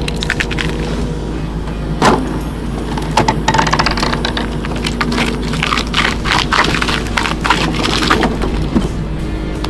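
A heavy machine's engine runs steadily while wood cracks, snaps and splinters under it in a rapid series of sharp breaks, with one loud crack about two seconds in.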